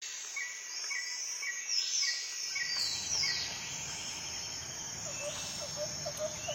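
Tropical forest ambience: a steady high insect buzz with birds calling over it. A short chirp repeats about twice a second at first, there are several falling whistles, and from about five seconds in a run of short low notes comes about three times a second.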